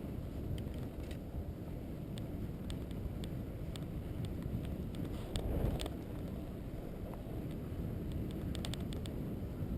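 Steady low rumble of a vehicle travelling along a road, with wind on the microphone and scattered light clicks and rattles, briefly louder about five to six seconds in.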